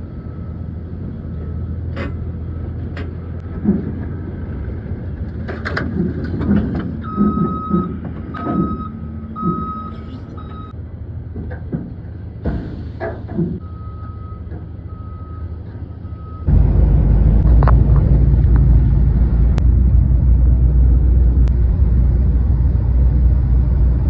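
Truck engine rumbling while a backup alarm beeps in short evenly spaced runs, with scattered knocks and clanks. About two-thirds of the way in, the sound switches abruptly to a much louder steady low rumble.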